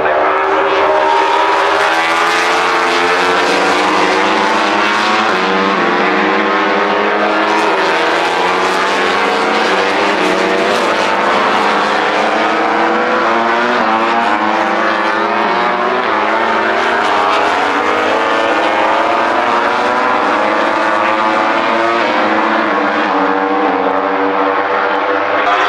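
Several MotoGP race bikes' 1000 cc four-cylinder engines running hard at once, loud and unbroken. Their pitches rise and fall as the bikes rev up and change gear.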